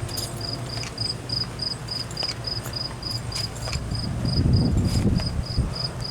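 A cricket chirping steadily, about three to four short chirps a second at one high pitch, with a low rumble about four to five seconds in.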